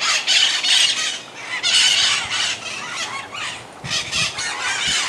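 A large flock of parrots screeching and squawking, many harsh calls overlapping in waves.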